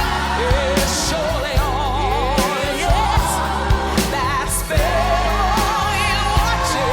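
Live gospel music: a woman singing long held notes with wide vibrato, over bass and regular drum beats.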